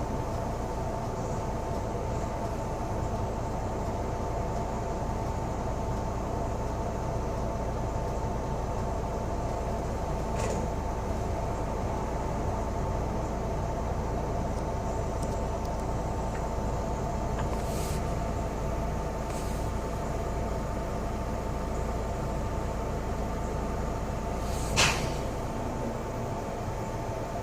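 Cabin noise aboard a moving double-decker bus: a steady engine and road hum with a few steady tones in it, broken by a few short knocks or rattles, the loudest near the end.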